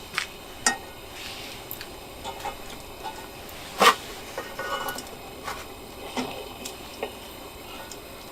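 Scattered light clinks and knocks of camp cookware and utensils, the loudest a sharp knock about four seconds in.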